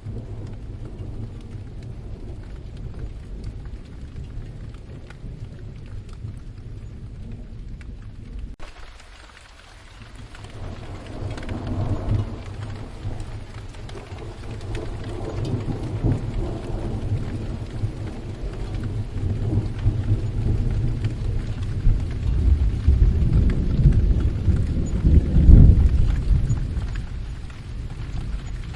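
Steady rain with rolling thunder. The rain's hiss turns suddenly brighter about a third of the way in. A rumble swells shortly after, then a longer rumble builds to the loudest point about three-quarters through and fades.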